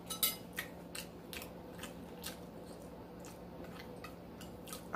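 Close-miked chewing: a string of soft, irregular mouth clicks, about two a second, over a faint steady hum.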